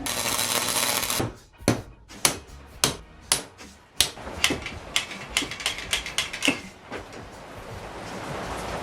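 A series of sharp metallic knocks or clicks, roughly two a second, each ringing briefly, from metal parts being worked during metal fabrication. They follow about a second of loud hissing noise.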